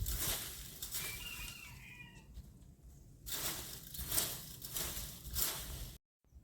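Footsteps rustling and crunching through dry grass and leaves, about two a second, with a brief faint bird chirp about a second in. The sound cuts off abruptly near the end.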